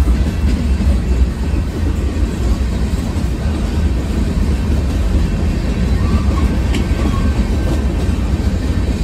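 Freight train rolling past close by: a loud, steady low rumble of its cars' wheels on the rails.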